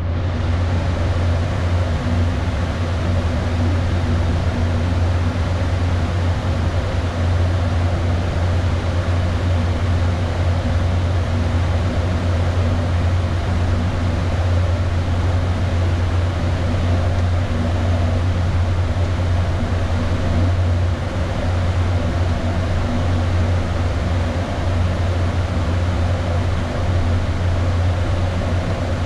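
Steady flight-deck noise of an Airbus A320 in flight: air rushing past the cockpit and the air-conditioning blowing, over a strong, even low hum.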